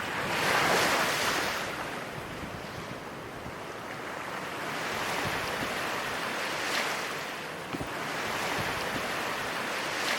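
Ocean surf washing onto the shore in slow swells, the loudest surge about half a second in.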